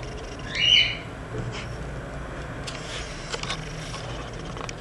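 A bird's single short, loud squawk less than a second in, followed by a few faint clicks over a steady low background.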